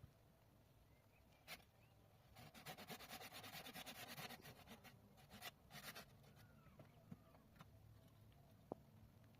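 Rapid scraping strokes for about two seconds, then two short runs of the same, and a single sharp click near the end.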